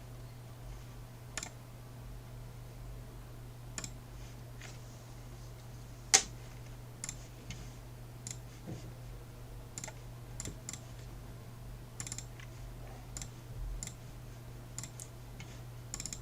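Scattered sharp clicks from a computer's mouse and keys, a dozen or so spread out, one much louder about six seconds in, over a steady low electrical hum.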